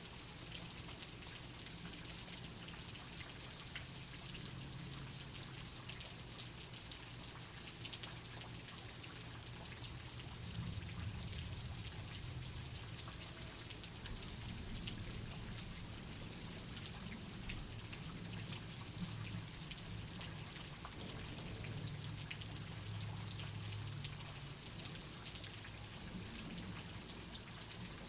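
Steady rain, with many single drops ticking through a constant hiss. A low rumble swells about ten seconds in and eases off near the end.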